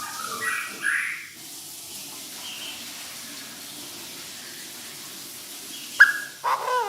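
Chinese francolin calling, used as a decoy: harsh call notes in the first second, then a steady hiss, a sharp click about six seconds in, and another call near the end.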